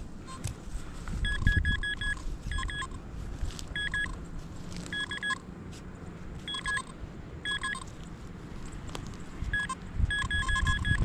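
Metal detector giving clusters of short, quick, high beeps again and again as it sounds off over a target in the dig hole. Low handling noise runs underneath.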